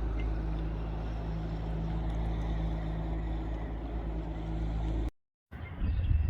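An engine runs steadily at a low, even hum, then cuts off abruptly about five seconds in. After a short gap, wind buffets the microphone with uneven low rumbling.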